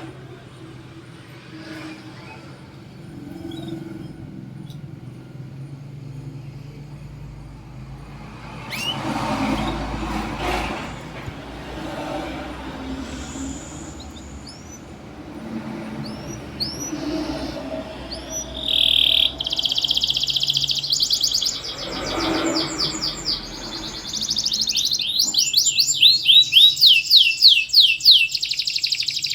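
Domestic canary singing: a few short chirps at first, then from about two-thirds of the way through a loud run of fast trills and rapid repeated notes. A low background rumble swells twice underneath.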